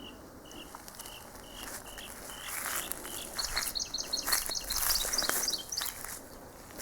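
Songbirds singing: one repeats a single short note about twice a second, and about halfway through a quick run of higher, stepping notes comes in for a couple of seconds.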